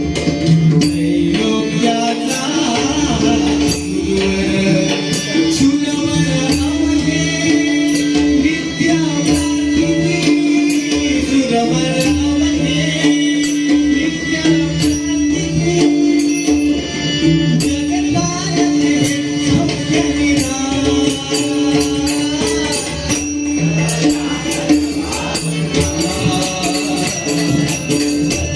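Devotional abhang music: a steady held note over drum and small hand-percussion keeping an even rhythm, with some group singing.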